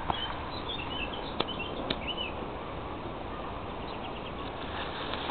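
Birds chirping in short high calls over a steady background hiss, with two sharp clicks about one and a half and two seconds in.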